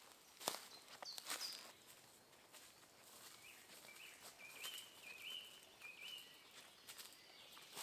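Quiet forest ambience: a few sharp clicks in the first second and a half, the loudest about half a second in, then a bird singing a short run of repeated high notes.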